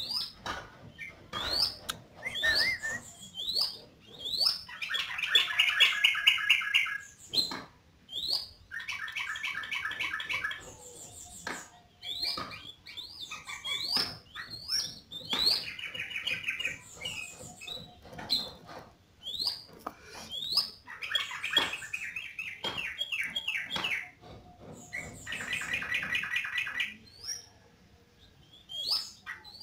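Yellow-vented bulbul (trucuk) singing vigorously: quick rising chirps, broken by about five runs of rapid, chattering notes, each lasting around two seconds.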